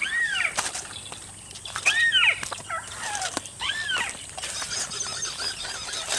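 Bird calling in a rice field: a rising-then-falling call repeated three times, about two seconds apart, with fainter high twittering joining near the end.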